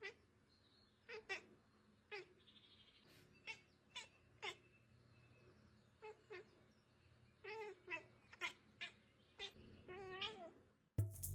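A cat, likely small, mewing faintly in many short calls every half second to second or so. Music starts suddenly at the very end.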